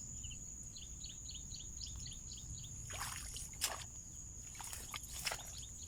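Insects calling outdoors: a steady high-pitched buzz with short chirps repeating about four times a second. A few short splashy or rustling noises come around three and five seconds in, over a low background rumble.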